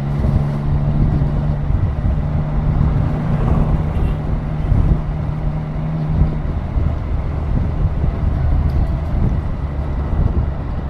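Triumph Daytona 660's three-cylinder engine running under way, with wind noise over the microphone. About six seconds in the engine note drops lower as the revs fall.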